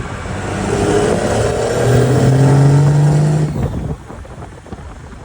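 A 12-valve Cummins inline-six turbodiesel with a Holset turbo revs up, holds high revs for a second or two, then drops off sharply about four seconds in to a lower rumble.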